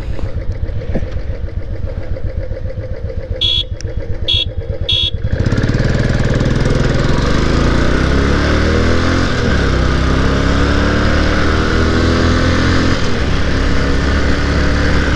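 Motorcycle engines idle with an even low pulsing, broken by three short high beeps. About five seconds in, the Royal Enfield Classic 350 and Yamaha R15 V3 launch from the line at full throttle. Engine pitch rises through each gear and falls back at the shifts, twice.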